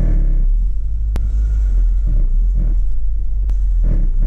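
Audi TT Mk1 Roadster with a steady low rumble and short, repeated groans from the lower front of the car: the rubbing noise the owner is tracing, which he can feel on the strut.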